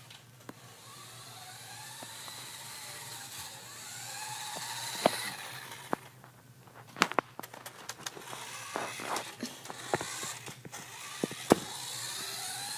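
Remote-control toy car's small electric motor whining and gliding up and down in pitch as it drives. In the second half it gives way to a run of sharp clicks and knocks.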